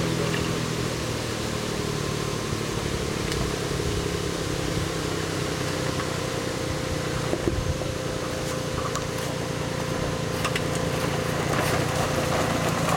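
Suzuki Jimny's engine running at low revs as the 4x4 crawls over a steep dirt slope, getting a little louder near the end, with a few faint clicks.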